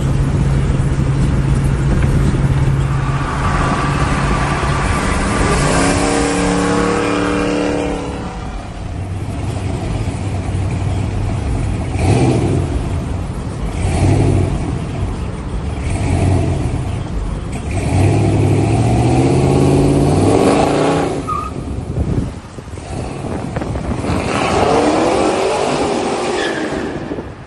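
A 1996 Impala SS's swapped Gen 4 5.3 L V8 running while driving, with its exhaust not yet welded. The note holds steady, then the revs climb under acceleration about six seconds in, again near twenty seconds, and once more near the end.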